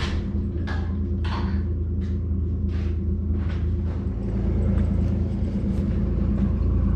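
A vehicle engine running steadily with a low rumble, growing a little louder about four and a half seconds in. A few short knocks or scrapes fall over it in the first half.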